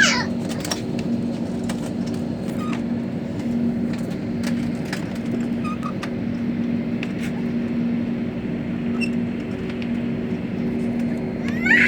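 Steady drone inside an airliner cabin ahead of takeoff, with a low hum and occasional faint clicks. A brief high rising squeal sounds right at the start and again at the end.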